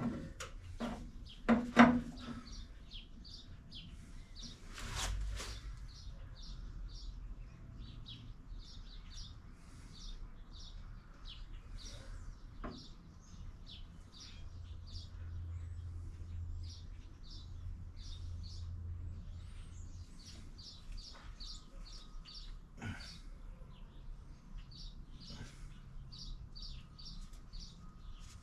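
Small bird chirping over and over in short high notes, a few a second. A few sharp knocks come near the start and a dull thump about five seconds in.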